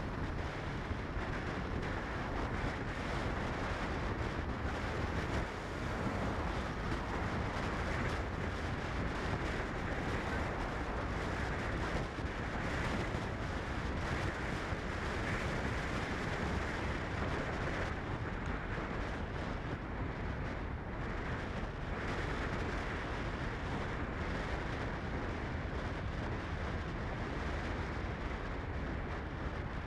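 Steady rumbling wind and road noise from a car on the move.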